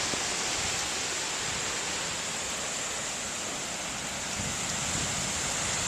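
Steady rushing noise of wind moving through leaves, with a continuous high-pitched insect drone under it.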